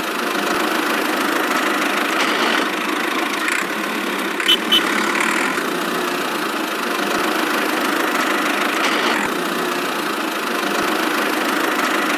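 Small motor of a miniature DIY construction machine running steadily, with two short clicks about four and a half seconds in.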